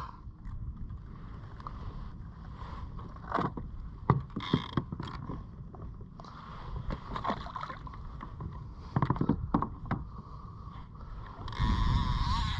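Wind rumbling on an unshielded camera microphone over open water, with scattered light knocks and clicks of gear on a kayak. A louder rush of wind noise comes in near the end.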